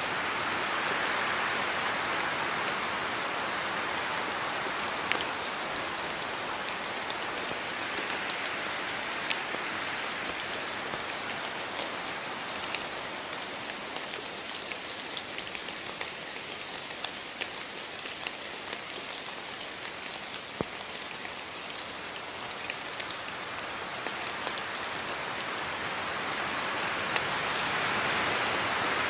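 Steady rain falling, with many small drop ticks through the hiss. It eases slightly midway and builds again near the end.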